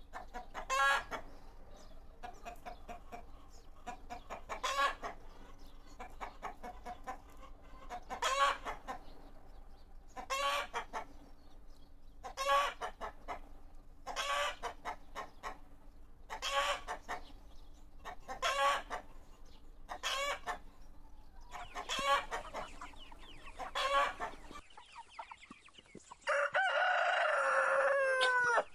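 Chicken calls, short pitched calls repeated about every two seconds. Near the end, after a break, a louder long call of about two seconds that drops in pitch at its close, like a rooster crowing.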